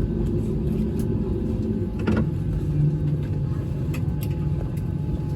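Airbus A320neo engine starting up, heard from inside the cabin as a steady low rumble. A faint steady whine comes in near the end. There is a single knock about two seconds in.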